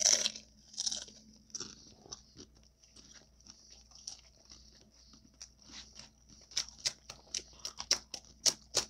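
Close-miked bite into crunchy nachos (tortilla chips), with a loud crunch at the start, then chewing. Near the end the crunches come quickly, about three or four a second.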